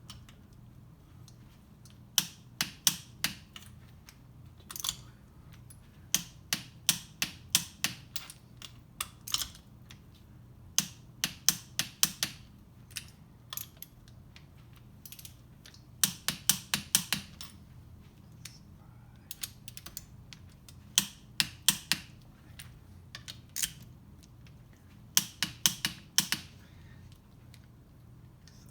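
Torque wrench clicking in short bursts of several sharp clicks with pauses between, as the bolted case bolts are rechecked to torque one by one.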